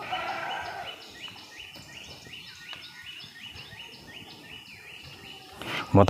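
A bird calling in a steady, even series of short high notes, about three a second.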